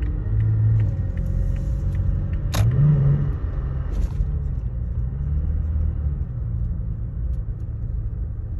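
2016 Toyota Tacoma's V6 engine running with a low hum whose pitch wavers up and down, briefly rising after a sharp click about two and a half seconds in. The engine is hesitating and down on power after a breakdown that set a check engine code.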